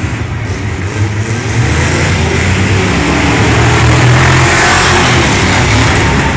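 Engines of a Subaru Impreza and a Jeep CJ7 running hard at full throttle during a head-to-head race. The sound grows louder about a second and a half in.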